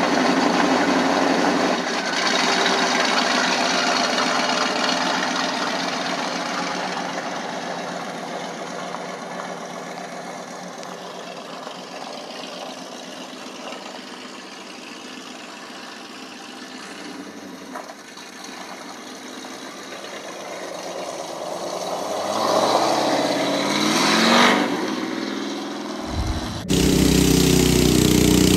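Supercharged V8 car engine pulling away and fading into the distance, then growing louder again with revs climbing in pitch as it comes back. In the last two seconds this switches abruptly to a small garden tractor engine running.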